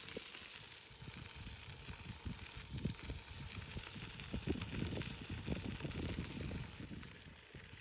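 Riding a bicycle: uneven low rumbling from wind buffeting the microphone, over a steady hiss of tyre and road noise.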